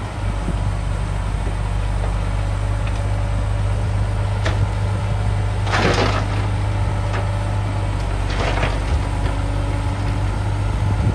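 Heavy diesel earthmoving machine's engine running steadily with a deep, even hum. Three short, sharp noises cut across it, the loudest about six seconds in.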